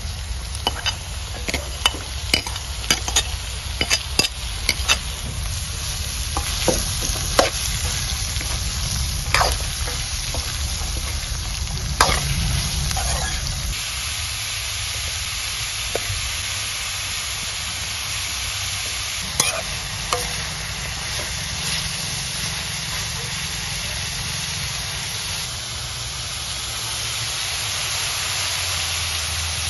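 Earthstar mushrooms frying in a hot wok, sizzling steadily. A metal ladle clinks and scrapes against the pan as they are stirred; the knocks come thick over the first dozen seconds and only now and then after.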